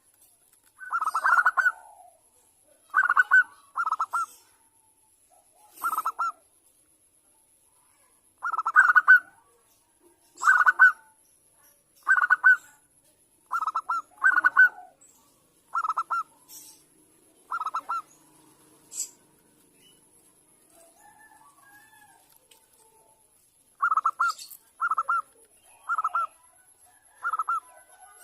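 Zebra dove calling: short trilled coos, single and in pairs, about every second or two, with a pause of about five seconds late on and then four quick coos near the end. The calls are those of a female calling to a male.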